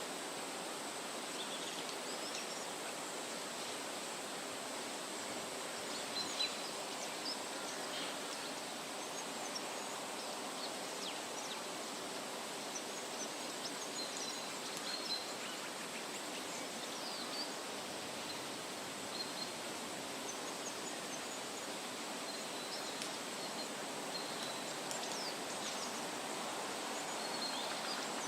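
Wind rustling through leafy trees in a steady hiss, with short bird chirps scattered throughout.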